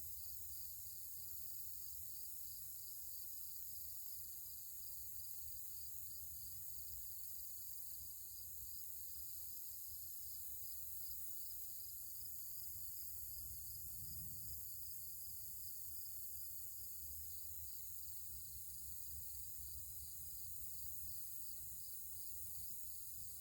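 Insects chirping, likely crickets: a rapid, evenly repeated high chirp over a steady high-pitched insect hiss, with a low rumble underneath that swells briefly a little past halfway.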